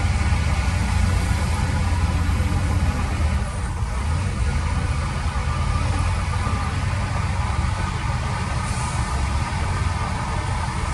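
Heavy diesel engine of construction machinery running steadily, with a strong low rumble.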